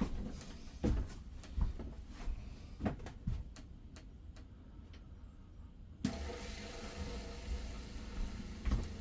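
A few handling knocks, then about six seconds in the RV's 12-volt water pump switches on suddenly and runs steadily, drawing RV antifreeze from the jug into the lines to winterize them.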